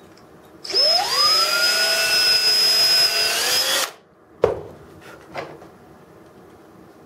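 Power drill spinning up and drilling out a rivet in a diecast metal model for about three seconds, its whine rising slightly in pitch just before it stops. Two short clicks follow.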